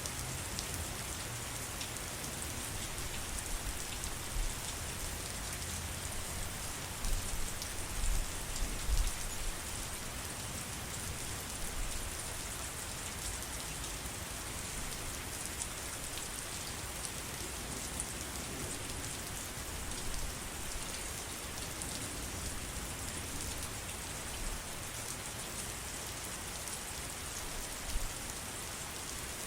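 Steady rain, a dense even patter of drops. A few low thumps stand out above it about a quarter of the way in, and one more comes near the end.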